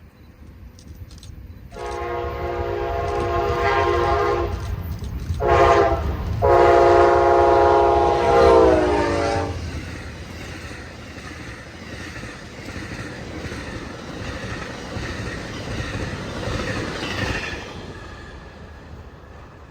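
Amtrak Genesis locomotive horn blowing a long, a short and a long blast, the pattern that closes a grade-crossing signal. The last blast drops in pitch as the locomotive goes by. After it comes the train's rumble and the clickety-clack of wheels over the rail joints, fading away near the end.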